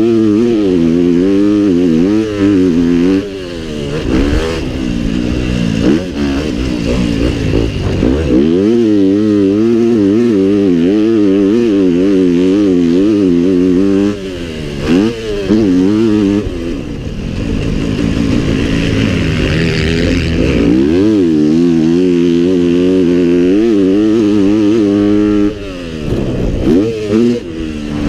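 Pit bike's small single-cylinder engine ridden hard, its revs rising and falling continuously with the throttle. The throttle is cut briefly several times before the engine revs up again.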